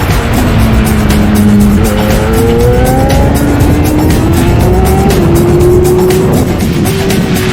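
Yamaha R6 sport motorcycle's inline-four engine running hard, its pitch gliding up and down as the rider accelerates and eases off, with music playing over it.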